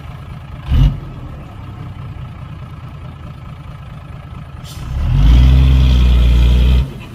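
Heavy diesel engine running low and steady, with a single knock about a second in, then revving hard for about two seconds near the end before dropping off suddenly.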